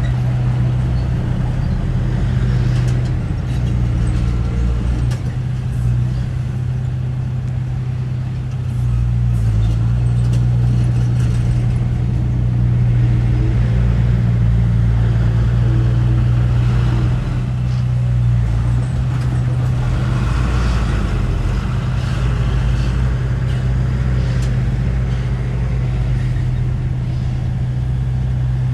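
Heavy diesel earthmoving engine running steadily with a deep, even hum, working a little harder for several seconds near the middle.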